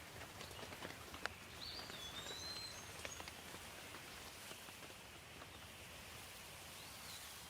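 Outdoor nature ambience: a faint steady hiss with scattered light ticks, and a few short, high bird calls, about two seconds in and again near the end.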